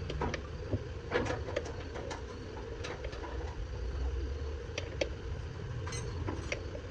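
Tractor engine idling steadily, with scattered sharp metallic clicks and knocks over it.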